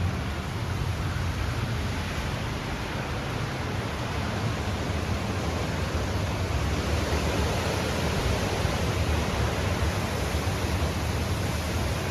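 Steady rushing of strong hurricane wind, gusting against the microphone with a low rumble.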